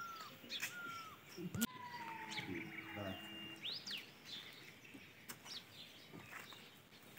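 Birds calling: a short call that dips at its end repeats about every two-thirds of a second at first, then a longer falling note and scattered chirps follow. Two sharp clicks come through about one and a half seconds in and again near five seconds.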